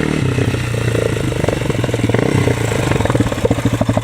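Quad ATV engine running, with its firing pulses growing into a distinct, even beat in the last second or so.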